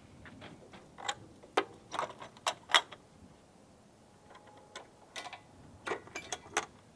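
A series of sharp clicks and knocks from objects being handled, coming in two clusters with the loudest knock about three seconds in.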